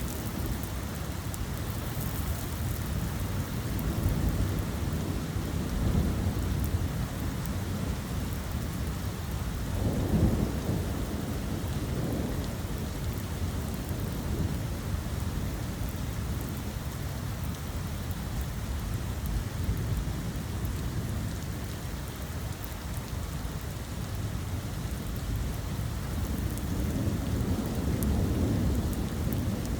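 Steady rain falling, with low rumbles of thunder swelling and fading several times, the strongest about ten seconds in and another near the end.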